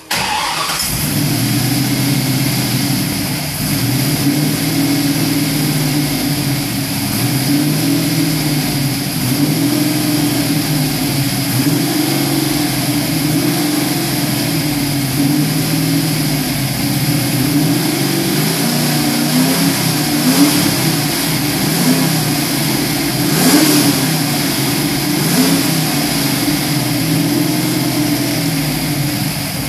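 Carburetted Ford 351 SVO V8 on its first run, catching at the start and then idling unevenly, its pitch wandering up and down, with a few brief throttle blips in the last third.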